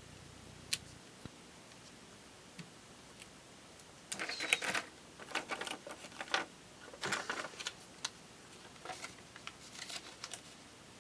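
Paper craft pieces being handled on a work surface: a single light click, then several short spells of rustling and tapping starting about four seconds in.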